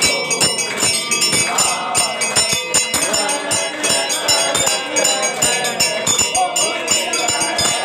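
Devotional aarti: voices singing together over temple bells rung rapidly and without a break, with metallic percussion clanging all through.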